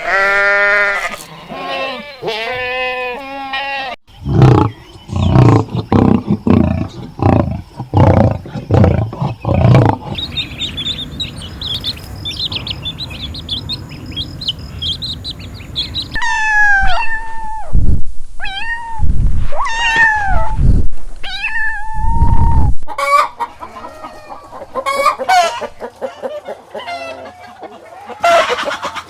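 A run of farm animal calls one after another, changing several times, with chickens clucking among them.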